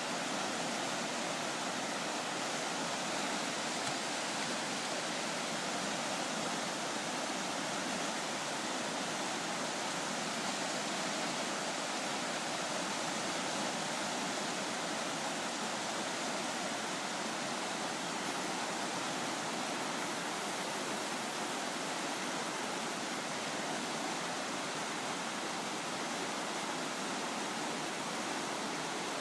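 Floodwater pouring through a levee break: a steady, unbroken rush of water.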